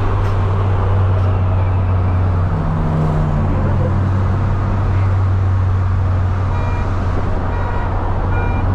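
Car running with a steady low engine drone and road noise.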